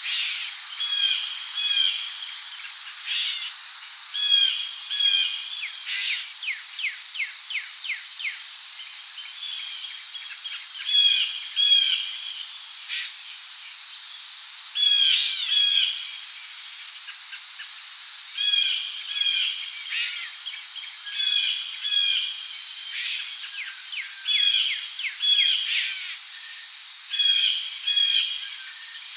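Rainforest ambience: a steady high-pitched drone of crickets and other insects, with birds repeating short chirping calls every second or two and a quick trill a few seconds in.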